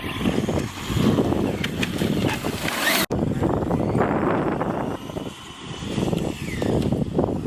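Radio-controlled car driving over rough ground, with its motor whine rising and falling and wind buffeting the microphone. The sound breaks off abruptly for an instant about three seconds in.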